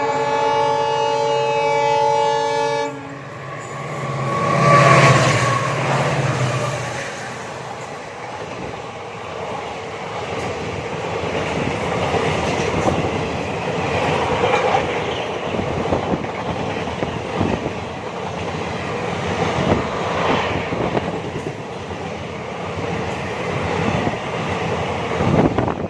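Train horn sounding for about three seconds and cutting off sharply, then a train running on the rails: a swelling rumble with the clickety-clack of wheels over rail joints.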